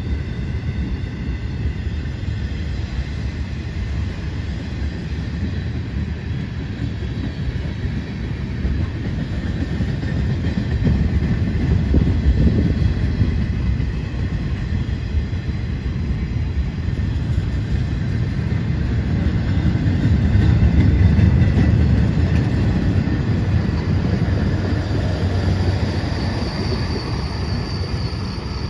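Freight flatcars loaded with long welded rail rolling past: a steady rumble of steel wheels on the rails that swells twice. A thin high tone comes in near the end.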